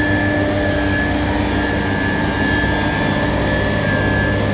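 Heavy diesel road-construction machinery running steadily on an asphalt paving job, a constant low engine drone with a steady higher whine over it.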